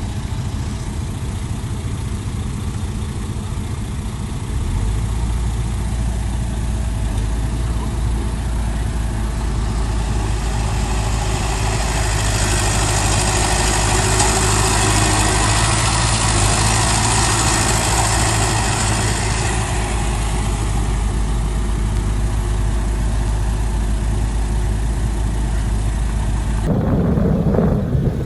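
Heavy diesel engine of earthmoving machinery running steadily. It gets deeper and stronger about four and a half seconds in and louder through the middle, then cuts abruptly to a different sound near the end.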